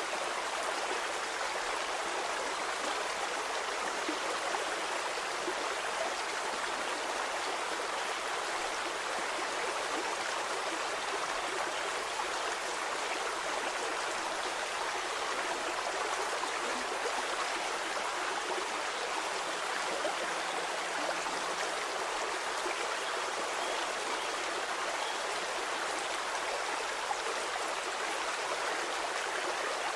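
Stream water flowing steadily over rocks: an even rush and burble with no low rumble.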